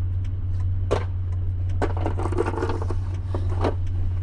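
A vehicle engine idling with a steady low hum, with several sharp clicks and knocks over it.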